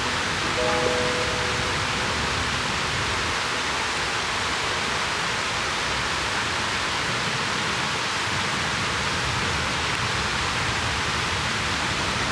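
Steady rushing of a river flowing close by, an even hiss of water with no breaks.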